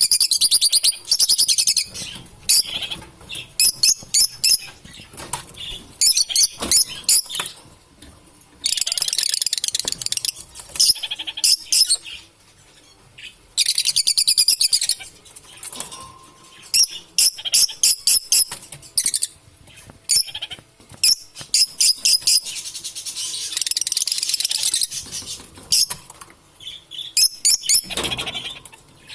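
Lovebirds chattering and chirping in bouts: rapid trains of sharp high-pitched notes and longer buzzy runs, with short pauses between them.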